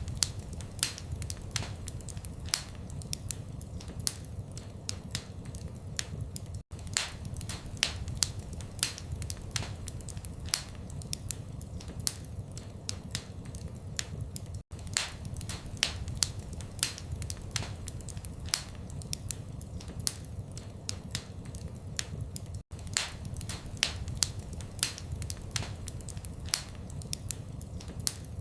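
Wood fire in a fireplace crackling, with frequent sharp pops and snaps over a low steady rumble of the flames. The loop has a momentary gap about every eight seconds.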